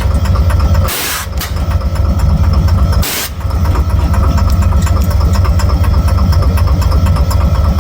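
Vehicle engine idling with a fast, low pulsing, the knocking that the owner asks about along with a lack of power. A short hiss cuts across it twice: about a second in, and again about three seconds in.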